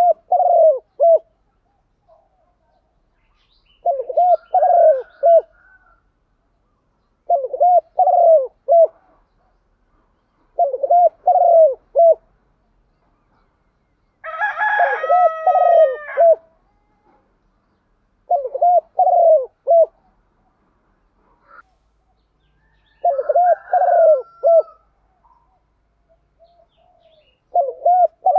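Spotted dove cooing: a phrase of several low, rounded coo notes repeated about every three and a half to four seconds, eight phrases in all. About halfway through, a higher, drawn-out call from another bird overlaps one phrase.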